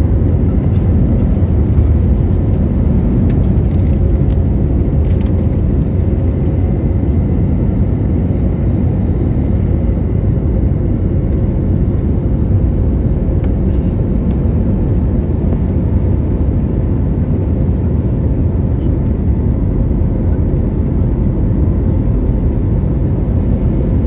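Airliner jet engines and airflow heard from inside the cabin during takeoff: a loud, steady low rumble with a faint whine running through it.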